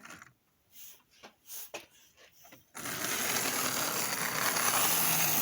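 HO-scale model locomotive running on the track, its motor and gears giving a steady whirring buzz that starts suddenly about three seconds in, after a few faint clicks.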